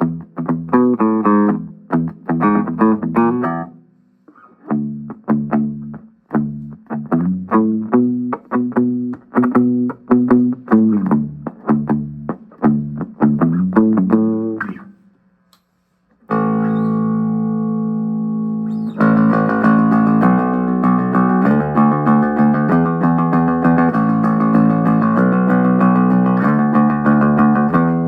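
Danelectro '63 electric bass played: a run of quick plucked notes for about fifteen seconds, a short pause, then long ringing notes held together, filling out about three seconds later.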